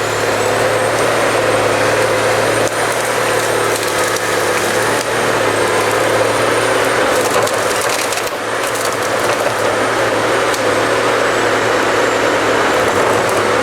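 Cut-to-length harvester processing a hemlock stem: the machine's engine runs steadily under load while the wood cracks and splinters in the head. A few sharper cracks come a little past the middle.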